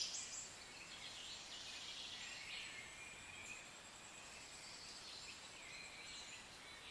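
Faint, high-pitched bird calls overlapping one another, over a thin steady high note.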